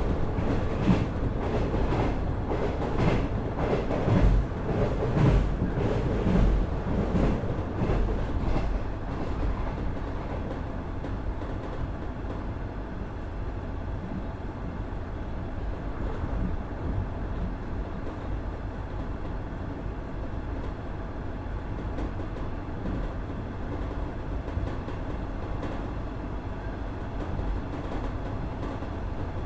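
Running sound inside a KiHa 110-series diesel railcar powered by a Cummins DMF14HZA engine. For about the first nine seconds the wheels clatter rhythmically over rail joints; after that the ride settles into a steadier, slightly quieter rumble.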